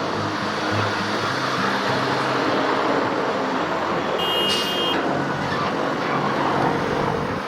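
Military helicopter running, a steady dense whine and rush of turbine and rotor noise, with a short electronic beep about four seconds in.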